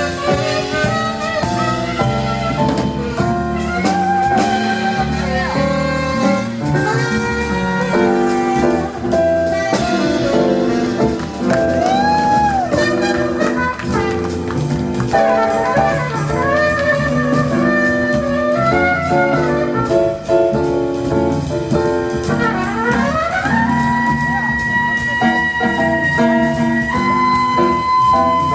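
Live jazz band playing, a horn carrying a bending, gliding melody over piano, bass and drums. Near the end the horn slides up and holds a long high note.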